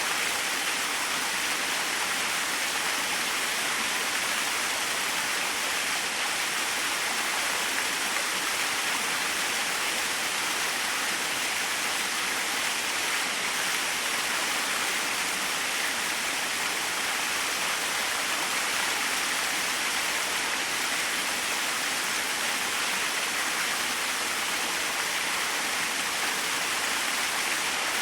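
Small waterfall splashing in a steady, even rush of falling water, bright and hissy with little low rumble.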